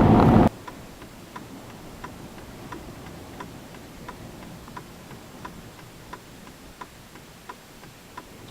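A car's indicator flasher clicking steadily, about one and a half ticks a second. Just before it, a loud rush of vehicle noise cuts off suddenly about half a second in.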